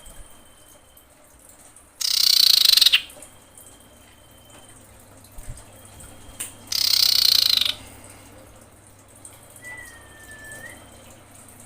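Female common iora calling: two loud, harsh screeching calls, each about a second long, about two and seven seconds in, with faint thin whistles between them and a short whistle near the end. This is the call of a female in breeding condition, used as a lure to draw males.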